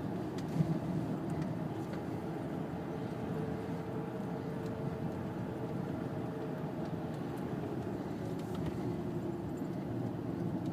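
Car driving at steady speed, heard from inside the cabin: a continuous low rumble of road and engine noise, with one short knock about half a second in.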